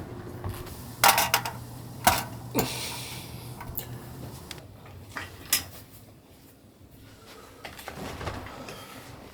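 A few sharp knocks and clicks of objects being handled, over a low steady hum that fades out about four seconds in.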